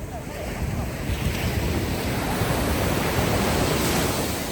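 Ocean surf washing ashore: the hiss of a wave builds from about a second in, peaks, and eases near the end, over a steady low rumble of wind and sea.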